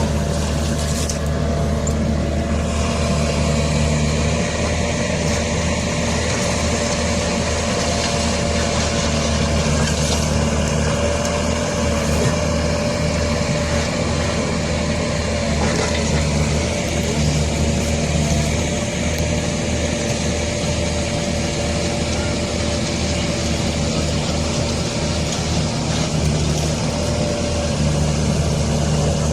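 Large farm machine's engine running steadily under work, a constant low drone with a steady whine above it.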